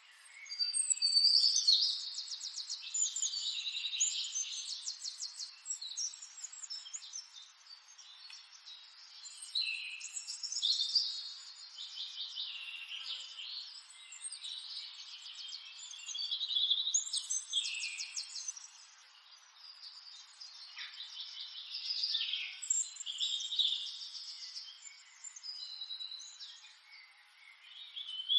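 Songbirds singing: overlapping high chirps and fast trills in phrases that rise and fall every few seconds.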